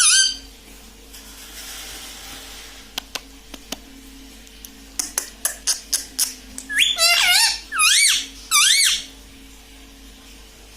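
Ringneck parrot making high, squeaky calls that sweep up and down in pitch: one at the start, then a few sharp clicks, then a quick run of about five calls a little past the middle.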